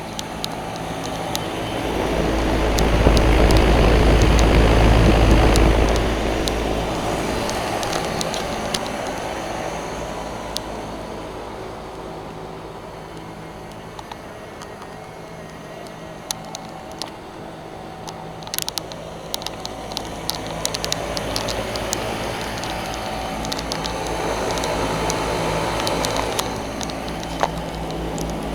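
Rheem commercial HVAC unit running, its four condenser fans blowing air over a steady hum from the Copeland scroll compressors. A louder low rumble swells for a few seconds near the start, with scattered small clicks throughout.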